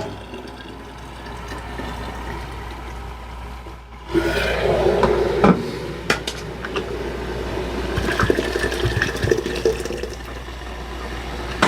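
A low steady hiss, then from about four seconds in hot coffee poured into a thermos flask, a running pour with a held tone, with a few sharp clinks.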